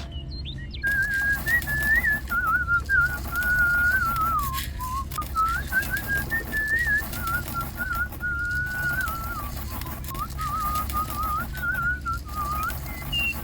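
A tune whistled as one wavering, melodic line, over a steady low machine hum.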